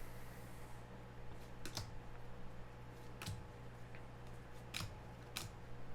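Football trading cards being handled and flipped through, with a few faint sharp clicks as cards are slid and snapped past one another.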